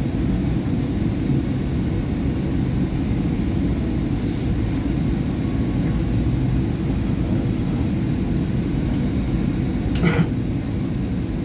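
SEPTA Market–Frankford Line train running between stations: a steady low rumble with one short clank about ten seconds in.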